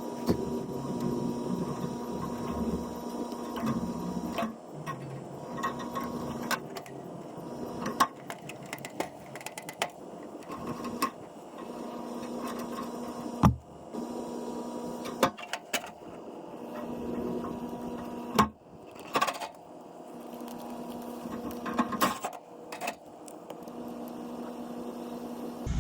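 Clicks and knocks of hand work on an air conditioner's wiring as a new capacitor is fitted, over a steady machine hum that drops out briefly a few times.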